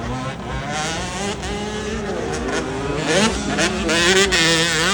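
Several motocross bikes' engines revving up and down together as they race, getting louder in the second half.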